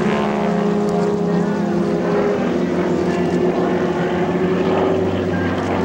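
A North American SNJ (T-6 Texan) in aerobatic flight: its 600-horsepower Pratt & Whitney R-1340 radial engine and propeller make a steady drone.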